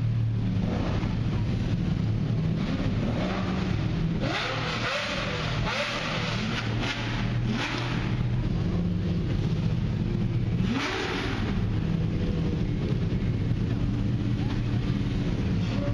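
Car engine running steadily, a low, even hum, with brief noisy surges now and then.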